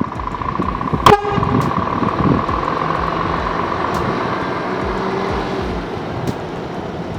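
Scania S500 truck running, with a short loud horn toot about a second in over a steady high tone.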